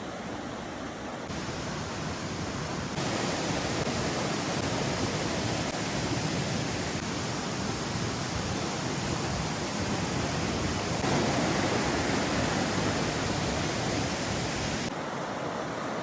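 Rushing river water, a steady noise that jumps abruptly in level and tone a few times.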